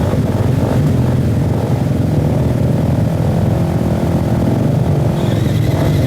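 Off-road enduro motorcycle engine running steadily at low revs, with a thin high whine joining about five seconds in.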